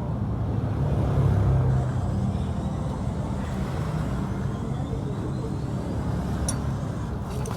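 Yamaha Exciter 135's single-cylinder four-stroke engine running steadily at low revs, a little louder about a second in. A couple of light clicks come near the end.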